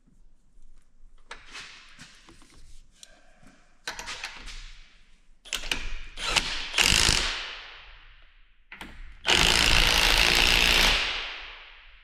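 Impact wrench run in several short bursts, tightening a lock nut onto an idler pulley. The last burst, near the end, is the longest and loudest at about two seconds.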